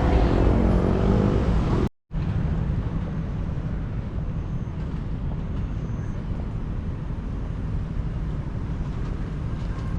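Walking street-sound ambience: a steady low rumble of outdoor noise, with voices in the first couple of seconds. The sound drops out for a moment about two seconds in, then the steady rumble carries on a little quieter.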